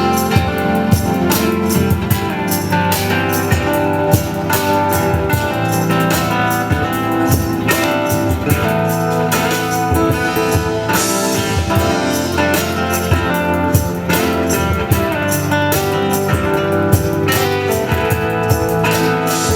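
Live band music: plucked strings over a drum kit, with many steady drum hits and sustained melodic notes.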